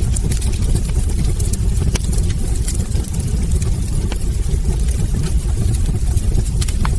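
Wood fire burning in a fireplace: a steady low rumble of the flames with frequent small, irregular crackles and pops from the burning logs.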